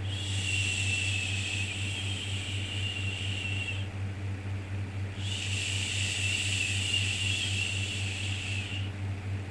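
A soothing "shhh" shushing sound, each shush held for about three and a half seconds with a short pause between, twice, over a steady low hum of background noise.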